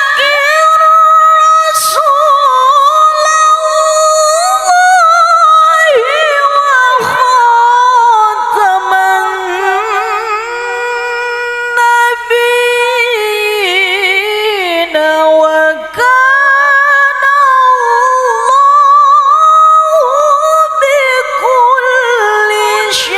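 A woman reciting the Quran in the melodic tilawah style, unaccompanied: long held notes with wavering ornaments, broken by a few brief pauses.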